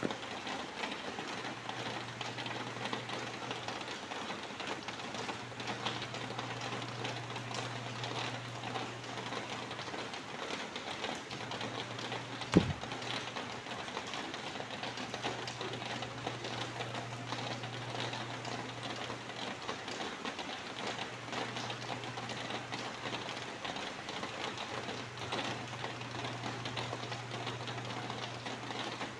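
Rain falling, a steady hiss dense with small drop ticks, over a low hum that drops out now and then. A single sharp knock stands out about twelve seconds in.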